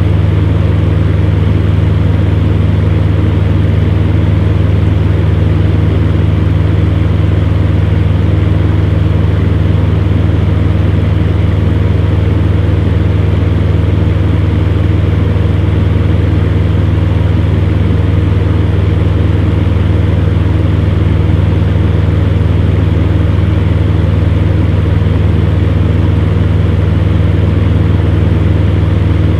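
Electric fan heater running steadily: a constant low hum with an even whirr of moving air over it.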